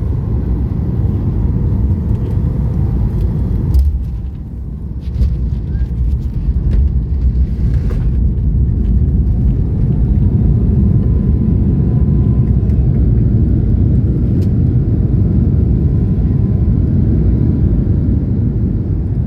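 Cabin noise of a Boeing 737 MAX 8 airliner landing: a loud, steady low rumble. A sharp thump comes about four seconds in, the rumble dips for a moment, then builds again and holds steady.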